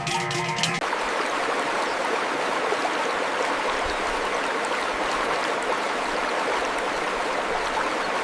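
Running water of a stream: a steady rushing that sets in about a second in, as music cuts off.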